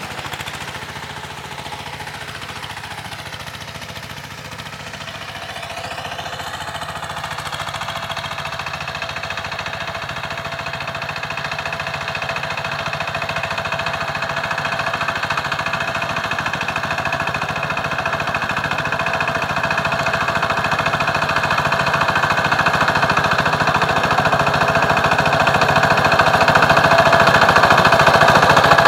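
Power tiller's single-cylinder diesel engine running with a rapid knocking beat. Its pitch rises about five seconds in, and it grows steadily louder.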